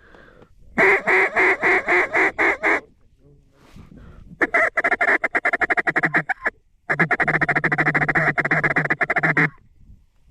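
Mallard duck call blown by a hunter: a string of about eight quacks, then two longer runs of fast, rapid-fire chatter.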